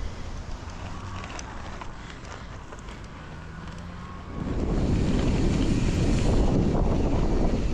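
Wind rushing over the microphone of a moving bicycle rider, moderate at first with scattered small clicks and rattles, then turning suddenly much louder and heavier a little over halfway through.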